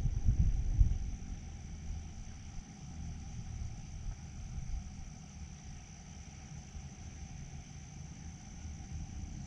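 A steady high-pitched insect trill carries on without a break over a low, fluctuating rumble. A few louder low thumps come in the first second.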